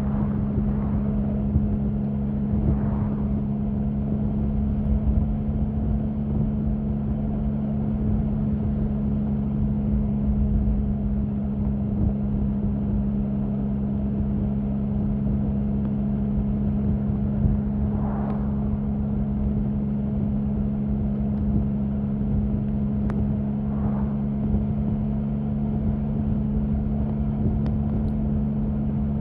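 Triumph Sprint 1050's three-cylinder engine running at a steady, unchanging engine speed, with no revving.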